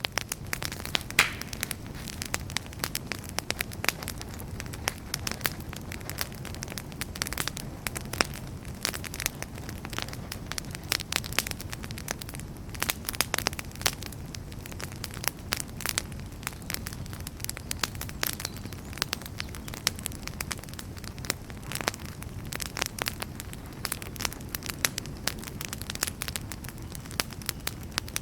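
Wood campfire burning, with a steady low rumble of flames and dense, irregular crackles and pops.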